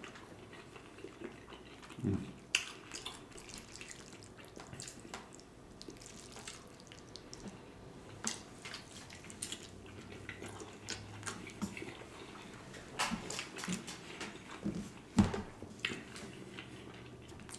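Close-miked wet chewing and mouth sounds of a person eating macaroni and cheese and meat, with scattered small clicks of a fork against a plastic takeout tray. A few louder smacks come about two seconds in and again near the end.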